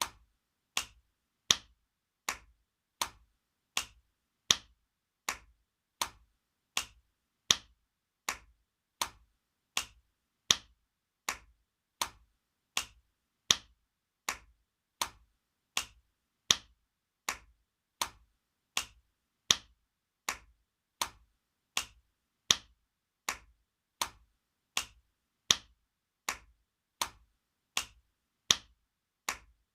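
Spanking sound effect: sharp slaps of a hand on skin, repeated at an even pace of about one every three-quarters of a second, some hits louder than others.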